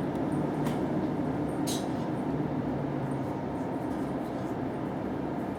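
Fire truck's diesel engine running steadily, a low, even rumble, with a couple of brief sharp clicks about a second in.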